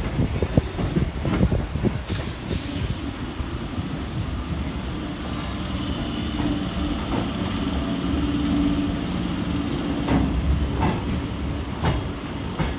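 Suburban electric local train running on its tracks, its wheels knocking over rail joints at the start and again near the end, with a steady low hum in between and brief faint high wheel squeals.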